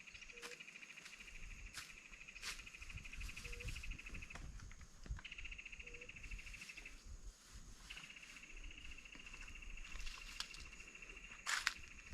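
Insects trilling, a steady high-pitched, finely pulsed buzz that stops about four seconds in and again around seven seconds, resuming each time. Scattered light clicks, and a short low note that comes three times a few seconds apart.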